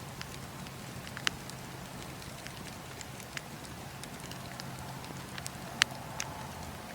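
Campfire burning: a steady hiss with scattered sharp crackles and pops of the wood, the loudest pop a little before six seconds in.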